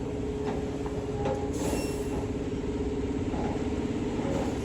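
Concrete mixer truck's diesel engine running at low speed as the truck creeps forward, a steady drone.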